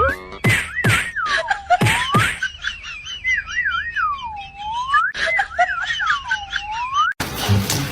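A whistled tune sliding up and down in pitch, repeating the same swooping phrase several times over a few sharp knocks. It stops suddenly near the end, giving way to a steady hiss.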